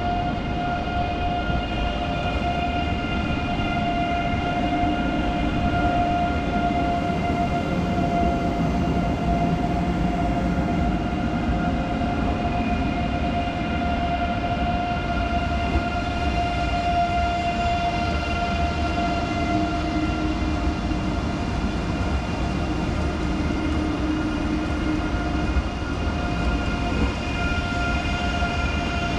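Electric rail vehicle humming steadily, with several constant high whining tones over a low rumble.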